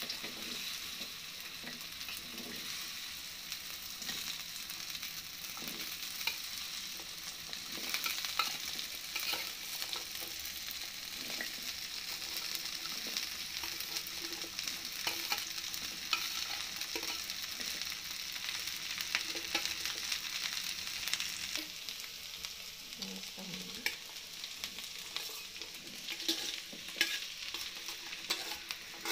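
Sliced okra frying in hot oil in a metal kadai, a steady sizzle with scattered light clicks and taps as more pieces are tipped into the pan.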